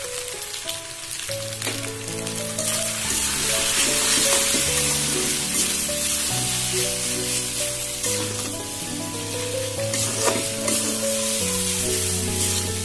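Noodles and shell pasta sizzling in a wok over full flame, stirred and tossed with a metal spatula that clicks against the pan now and then. Background music with held notes comes in about a second in.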